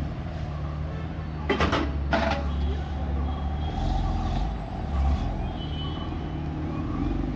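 BMW M4's twin-turbo inline-six idling with a steady low rumble. Two short loud bursts of noise about half a second apart break in about one and a half seconds in.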